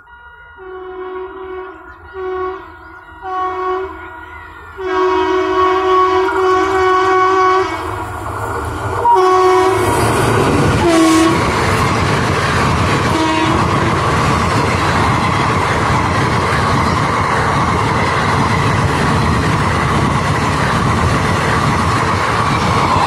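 Express train's horn sounding in a series of short blasts and one long blast as it approaches. From about ten seconds in comes the loud, steady rumble and clatter of the coaches running past at speed.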